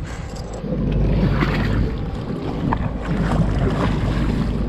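Wind buffeting the microphone over a steady low rumble and water noise around a small boat on open water, getting louder about a second in.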